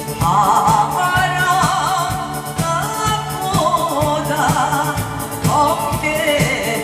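A trot song sung live with heavy vibrato over a backing track with a steady drum beat.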